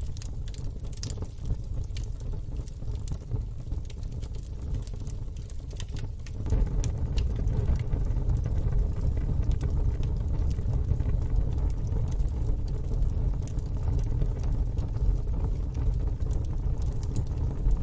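Wood fire in a fire pit crackling, with scattered sharp pops over a low, steady rumble that grows louder about six seconds in.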